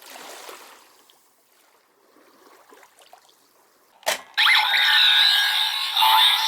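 A click about four seconds in, then a loud electronic sound effect of many bright tones and quick pitch glides lasting a couple of seconds.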